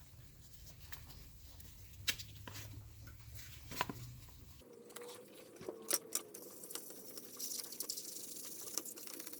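Scattered light clicks and taps with faint scraping, typical of small parts being handled and worked by hand. A low background hum cuts off abruptly about halfway through, and a faint steady tone with some hiss follows.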